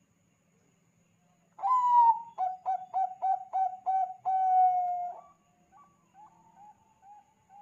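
Zebra dove (Thai-bred 'Bangkok' perkutut) singing its cooing song: starting about a second and a half in with a drawn-out opening note, then a run of about seven quick staccato coos and a long, slightly falling closing note. Softer short coos follow after it.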